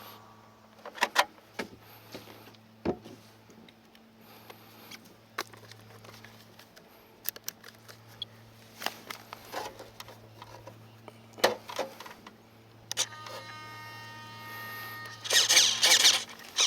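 Scattered clicks and knocks of objects being handled over a steady low hum, with a louder rushing, hissing noise starting about fifteen seconds in.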